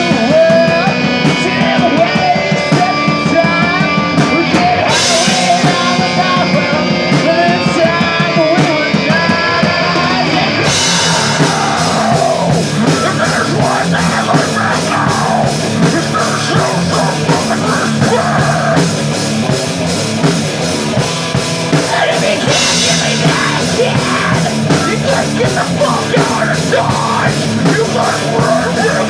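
Rock music played on electric guitar and drum kit. About ten seconds in, the band comes in fuller and denser.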